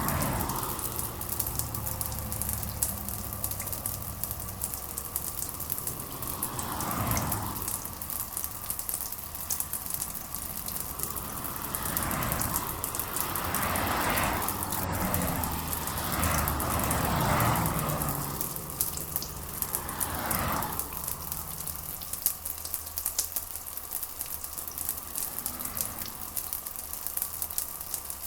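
Steady rain falling, with dense close drops pattering throughout. A lower, fuller sound swells and fades several times.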